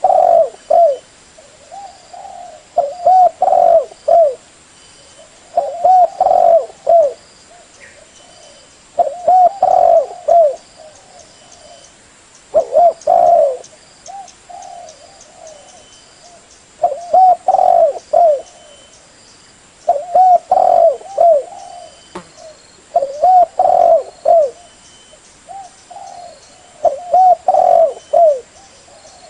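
Spotted dove (tekukur) cooing: a phrase of several low, rolling coos repeated about every three seconds. Faint short high-pitched notes sound in the background.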